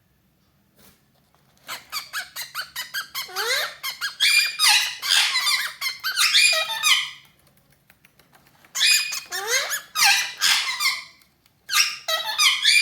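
Pet parrots (cockatiel or Indian ringneck) chattering in rapid runs of short chirps and rising whistled glides. There are three runs, split by short pauses.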